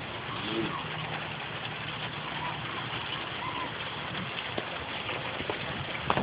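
Steady outdoor noise of wind and rain, with a few faint short chirps.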